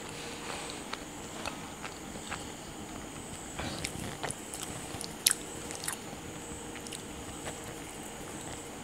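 Close-miked chewing of homemade pizza: irregular soft mouth clicks and smacks, with one sharper click about five seconds in.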